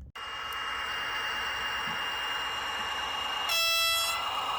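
Sound-equipped model locomotive running on the test track: a steady running sound with a thin high whine, and one short horn blast about three and a half seconds in.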